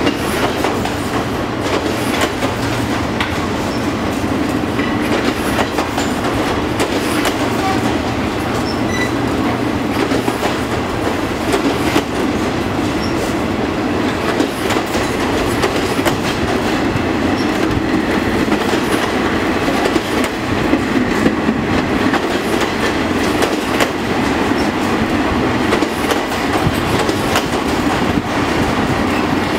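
A long train of ex-JR West passenger coaches rolling past: a steady rumble of steel wheels on rail, with scattered clicks as the wheels cross rail joints.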